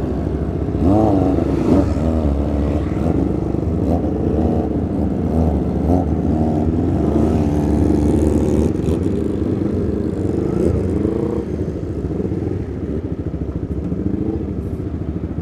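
Sport motorcycle engines running at idle close by, with repeated light throttle blips that rise and fall in pitch for the first ten seconds or so, then settling to a steady idle.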